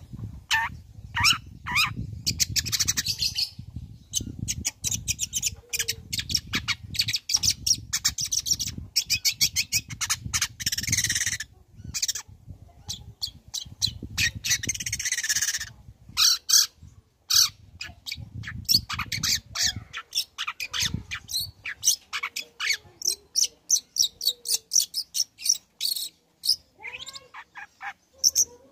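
Long-tailed shrike (cendet) in full song: a fast, varied run of sharp chips and trills broken by harsh, scratchy squawking passages. A low rumble sits beneath the first half.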